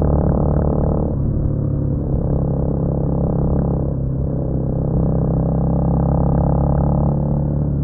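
Honda CMX250 Rebel single-cylinder engine running steadily under way, a low drone whose note shifts slightly about a second in and again near the end.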